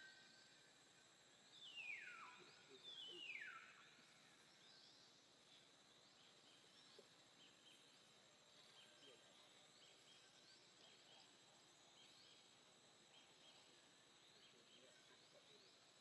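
Faint outdoor nature ambience: two clear whistled calls sliding down in pitch near the start, one after the other, over a steady high insect drone, with scattered faint chirps.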